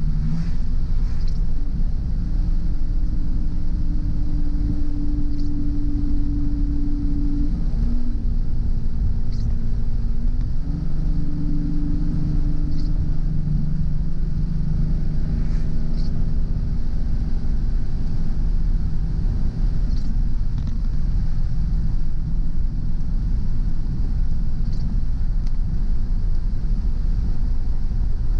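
A car driving along a road: a steady low rumble of engine and tyres, with engine tones shifting in pitch as the speed changes, and a faint short tick every four seconds or so.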